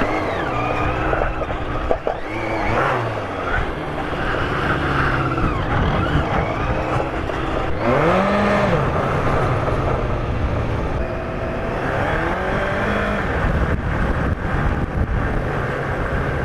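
Sport motorcycle engine running under way, its pitch rising and falling again and again as the throttle is opened and closed.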